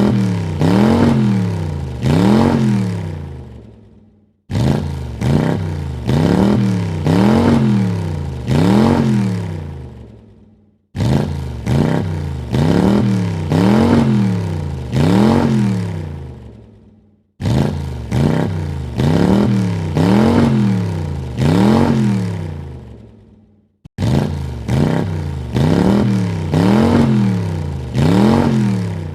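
Car engine revved in quick blips, with four or five sharp rises and falls in pitch. The same short rev sequence repeats about every six and a half seconds, each time fading away and then cutting off abruptly.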